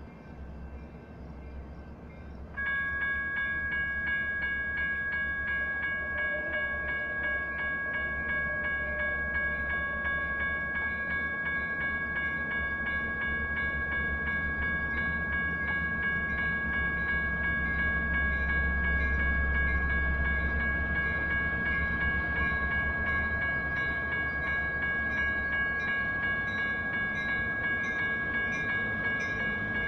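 Railroad crossing's electronic bells (General Signals Type 1) start ringing suddenly about two and a half seconds in and keep ringing steadily as the crossing warns of an approaching train. A low rumble runs underneath, swelling for a few seconds past the middle.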